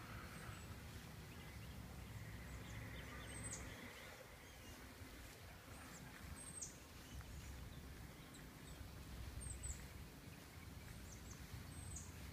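Faint outdoor background with a bird giving a short, high, falling chirp four times, about every three seconds.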